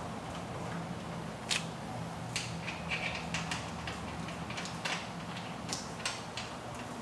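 Scattered short, sharp clicks and clinks of metal hardware as wing nuts are fitted onto the anchor studs of a hurricane fabric panel, over a steady low hum.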